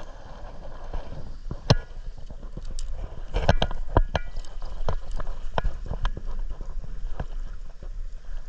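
Irregular sharp knocks and clicks over a low, steady rumble aboard a fishing boat.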